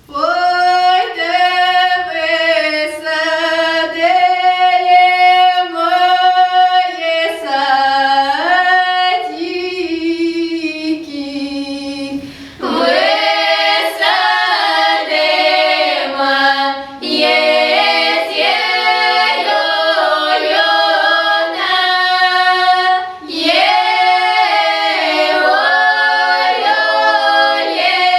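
A children's folk choir singing a Russian folk song without accompaniment, in long held, drawn-out melodic lines; the singing grows fuller and louder about halfway through.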